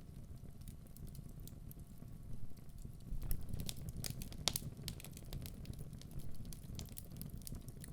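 Wood fire burning in a fireplace, a steady low rumble of flames with frequent sharp crackles and pops from the logs, busiest in the middle.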